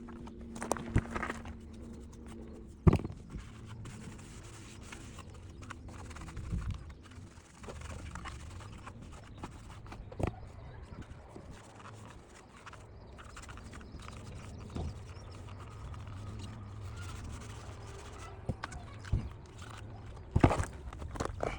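Scattered clicks, knocks and scrapes from parts of a car's heater blower motor being handled, the loudest knock about three seconds in.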